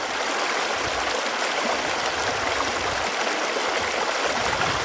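Running water: a steady, even rush of flowing water with no change in level.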